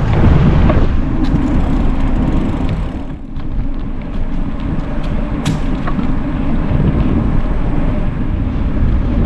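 Wind rushing over the microphone of a moving bicycle, a steady low rumble that dips briefly about three seconds in, with a few faint ticks or rattles.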